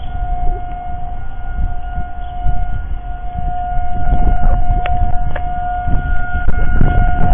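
Warning siren being tested, sounding one steady tone throughout. Under it is a low rumble, and a few sharp clicks come between about four and six seconds in.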